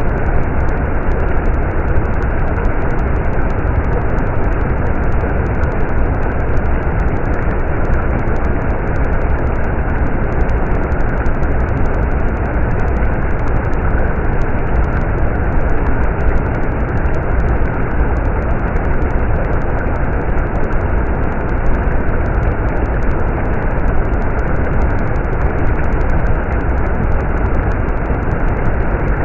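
Stream water rushing and flowing steadily, a constant noise with a deep low rumble.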